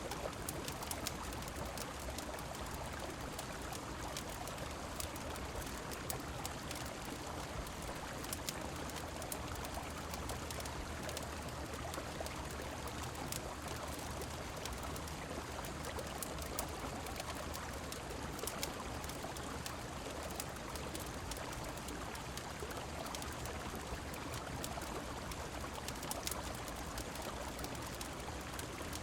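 Steady rush of a flowing river mixed with falling rain, with many small sharp ticks scattered through it.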